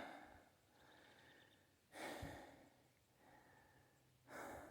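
A person breathing close to the microphone, with three louder out-breaths about two seconds apart.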